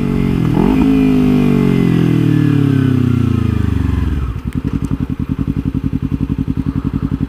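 Kawasaki Ninja 300's parallel-twin engine winding down in revs as the bike slows, the pitch falling steadily for about four seconds. It then settles into a steady idle with an even, pulsing beat.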